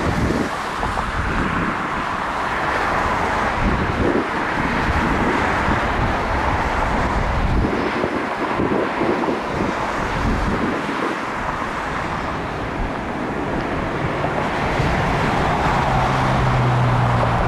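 Jet airliner engines running with a steady roar, with wind buffeting the microphone. A low steady hum joins near the end.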